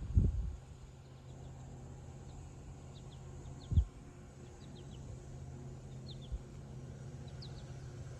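Faint, short bird chirps over a steady low hum, with a few low thumps, the loudest just under four seconds in.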